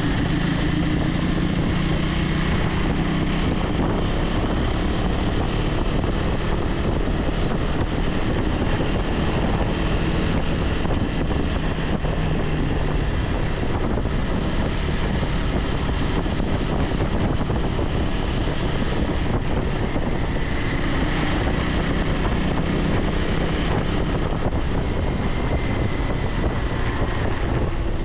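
KTM 390 Adventure X's single-cylinder engine running at a steady cruise, mixed with a heavy rush of wind on the microphone and tyre noise on tarmac.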